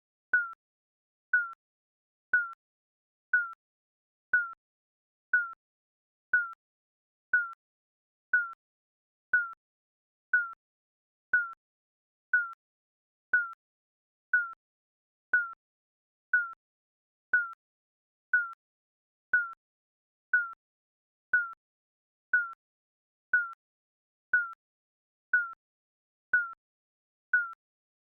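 Digital countdown timer beeping: one short electronic beep each second, each dipping slightly in pitch and fading quickly, with silence between.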